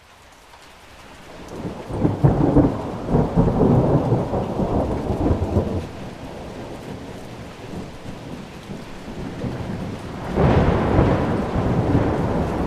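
Thunderstorm: steady rain rising in level over the first two seconds. A long roll of thunder starts about two seconds in and rumbles for several seconds, and a second roll begins near the end.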